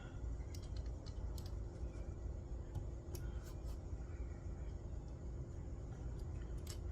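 Light, scattered metal clicks of a wrench turning and tightening the bolts that clamp a chainsaw bar into a cast-iron chainsaw mill attachment, over a steady low rumble.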